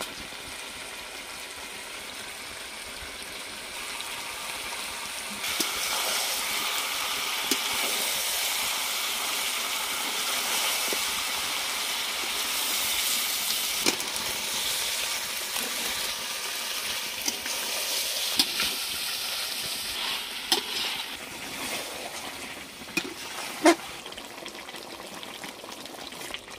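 Chicken pieces frying in mustard oil and spices in a steel kadai, a steady sizzle that grows louder about five seconds in, while a metal spatula stirs them. The spatula scrapes and knocks against the pan now and then, with several sharp knocks near the end.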